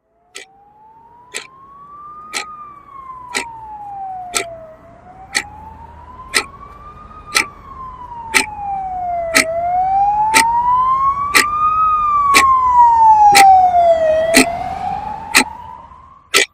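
Emergency-vehicle siren on a slow wail, rising and falling in pitch, growing louder and then fading as it passes. Sharp ticks about once a second run under it.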